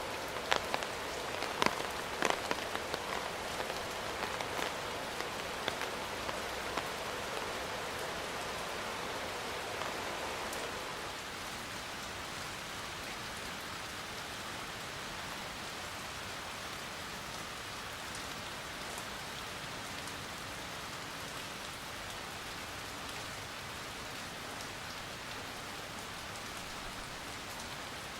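Steady rain falling, with sharp, close drops striking a surface in the first several seconds, then settling about ten seconds in to an even, slightly quieter patter.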